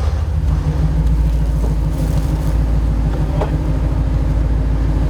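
Nissan GQ Patrol's engine running steadily, its note firming up about half a second in and then holding, with a couple of brief knocks.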